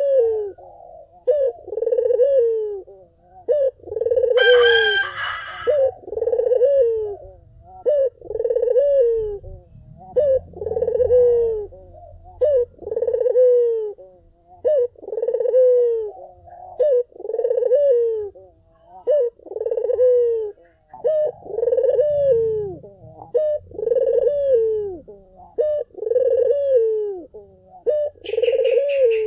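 Barbary dove (puter) cooing over and over, a short coo about every second and a quarter, each one falling in pitch. A brief higher call cuts in about four and a half seconds in, and another short high call comes near the end.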